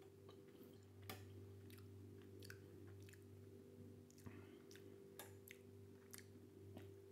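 Faint, irregular mouth clicks and soft smacks of someone chewing a slice of Quorn vegetarian chicken, over a faint steady electrical hum.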